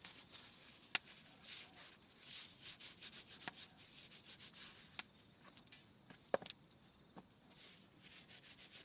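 Soft rustling and rubbing with a few scattered sharp clicks, the loudest about a second in and a little past six seconds.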